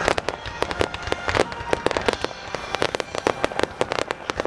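Aerial fireworks crackling: a dense, irregular run of sharp small pops from crackling stars as the bursts spread and fall.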